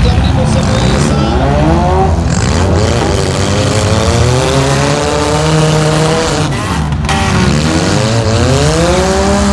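Demolition derby car engines revving hard, their pitch rising and falling in long sweeps over a steady low rumble.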